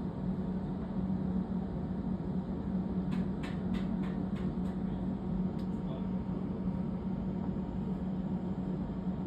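Steady low mechanical hum, with a few faint ticks about three to four seconds in.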